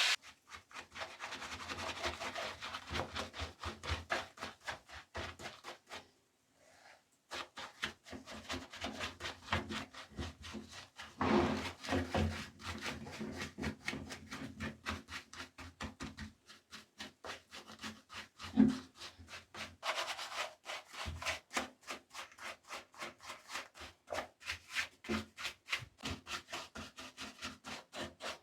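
A brush scrubbing a small diecast toy motorcycle in quick, repeated rubbing strokes, several a second, with a short pause about six seconds in.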